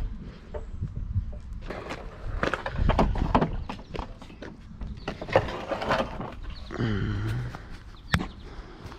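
Scrap metal and appliances being handled and loaded: irregular knocks, clanks and scraping as pieces are shifted and stacked, with a short pitched sound about seven seconds in.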